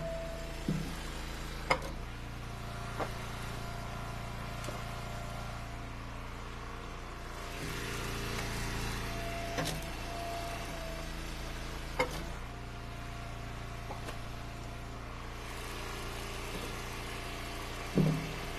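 Engine of a hydraulic log splitter running steadily, with a steady whine over the hum and about six sharp knocks of wood spread through.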